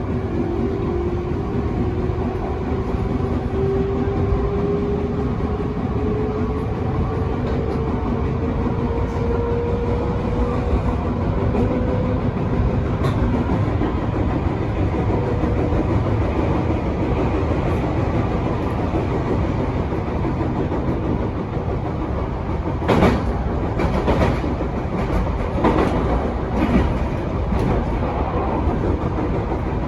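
Electric train running, heard from inside: a steady rumble with a motor whine that rises in pitch over the first dozen seconds as the train picks up speed. Then a run of sharp clacks as the wheels pass over rail joints or points, about 23 to 27 seconds in.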